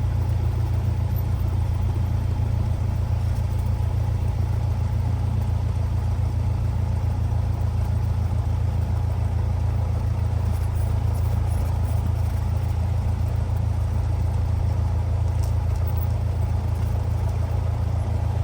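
Cessna 172R's four-cylinder Lycoming engine and propeller running steadily at low power, a constant low drone with no change in pitch.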